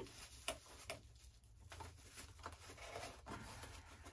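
Faint scattered clicks and light rustling of hands working small plastic parts loose, roughly one click every half second to a second, over a low steady hum.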